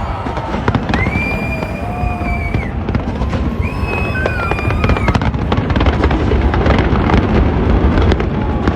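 Fireworks display going off continuously: a dense rumble of bursts, two long whistles in the first half, and thick crackling that builds in the second half.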